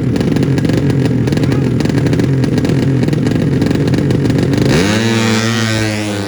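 200cc drag-racing motorcycle engine running loud and rough at high revs; about five seconds in it gives way to a steadier droning tone that starts to fade.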